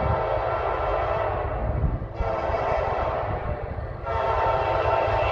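Horn of a CSX SD70AC freight locomotive sounding long blasts over the low rumble of the passing train: the first blast ends about two seconds in, a second follows at once, and a third starts about four seconds in after a short break.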